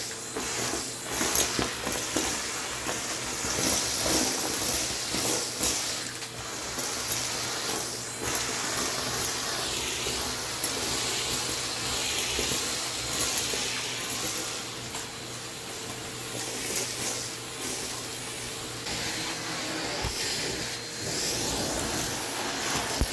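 Vacuum cleaner running: a continuous rushing hiss over a faint steady motor hum, rising and falling in loudness.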